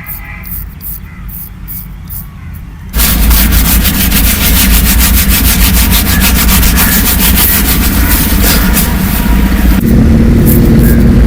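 Shaving on chest hair: light, quick scraping strokes about three a second, then about three seconds in a much louder, steady, rapid grating takes over, its low part shifting slightly near the end.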